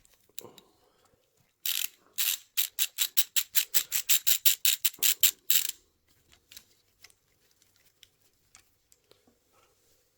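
Socket ratchet clicking rapidly, about four to five clicks a second for around four seconds, as a bolt is wound out of a motorcycle engine. Faint small tool clicks follow.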